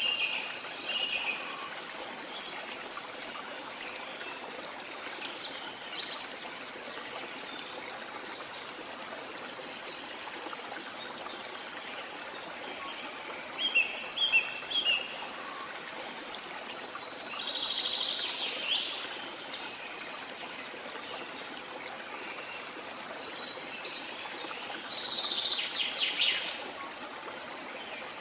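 Steady rush of flowing water from a waterfall or stream, with several songbirds calling over it: short chirps near the start, a quick cluster of notes about halfway, and louder, longer calls later on.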